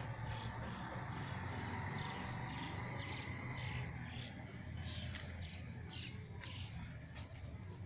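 Birds calling: a quick high note repeated about three times a second, then a few short downward-sweeping chirps in the second half, over a steady low rumble.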